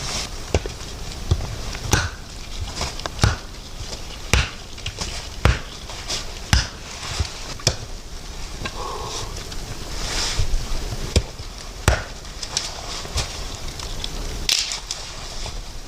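A series of sharp knocks, about one a second, over a faint steady background noise.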